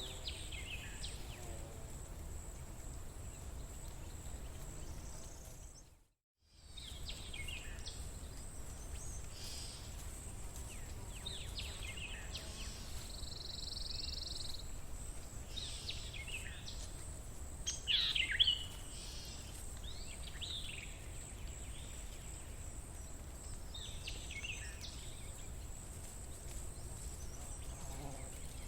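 Birds giving short, scattered chirping calls over a steady low background noise and a thin, steady high-pitched tone, with one louder call about eighteen seconds in. A short buzz comes about halfway through, and the sound cuts out completely for a moment about six seconds in.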